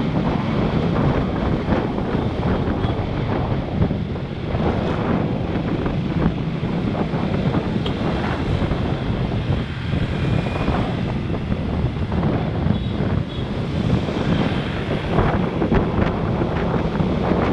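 Steady wind buffeting the microphone of a camera on a moving motorbike, over the motorbike's running engine and road noise.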